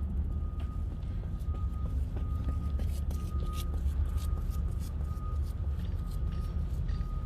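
Steady low rumble of wind on the microphone of a bicycle ride, with scattered light clicks and a faint high tone that comes and goes about twice a second.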